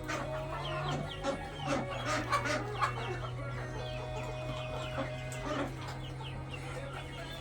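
A flock of chickens clucking and chirping, many short calls overlapping, over a steady low hum.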